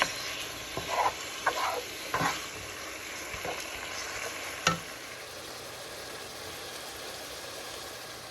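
Seasoned ground beef sizzling as it fries in a pot while it is stirred, with a few short utensil scrapes and knocks in the first couple of seconds and one sharp knock a little before the middle.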